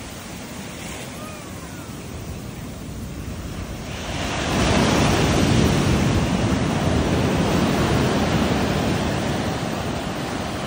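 Ocean surf on a beach: a quieter wash of water, then a wave breaking about four seconds in, loud at first and slowly fading as it washes up the shore.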